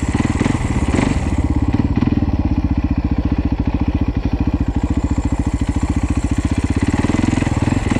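Husaberg FX450's single-cylinder four-stroke dirt bike engine running at low revs while being ridden, a steady run of even firing pulses.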